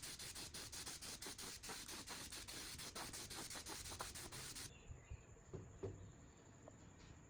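Rapid back-and-forth rubbing strokes on a part, about four a second, that stop suddenly a little over halfway through. A few faint light knocks follow.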